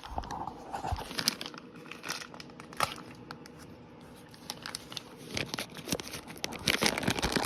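Packaging of a mini bike twist-grip throttle kit crinkling and tearing as it is opened by hand, in irregular crackles and rips that get busier near the end.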